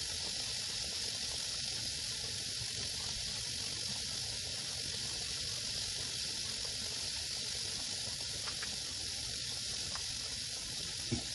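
Steady sizzling hiss of flour-dredged pork spare ribs shallow-frying in hot oil in a pan.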